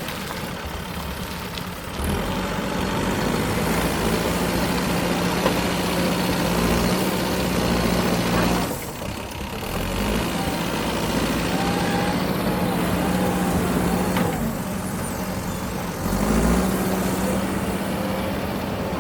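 Heavy diesel machinery engine running steadily under varying load, its note stepping up about two seconds in and again near the end, with a brief drop around nine seconds.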